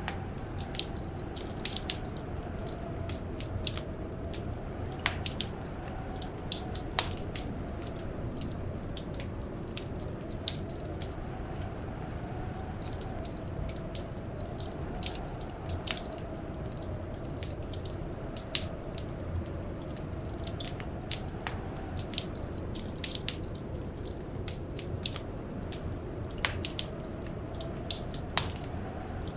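Wood fire crackling: irregular sharp pops and snaps, several a second at times, over a low steady rumble, with a faint wavering whistle rising and falling slowly underneath.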